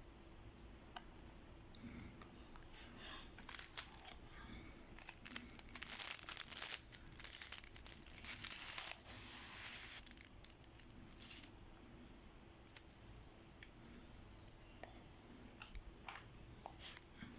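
Plastic food packaging being torn open and crinkled in a run of rustling bursts, loudest a few seconds in, then a few small clicks and rustles.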